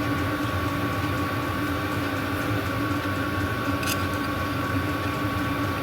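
A workshop machine-tool motor running steadily: an even hum with a constant whine, and one faint click about four seconds in.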